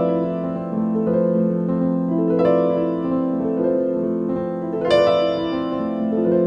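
Instrumental music led by a piano or electric piano: slow sustained chords, a new chord struck about every two and a half seconds.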